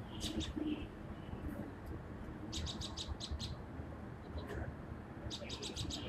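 Small birds chirping in quick runs of short high notes, with a run of about six chirps two and a half seconds in and another near the end, over a steady low rumble of background noise.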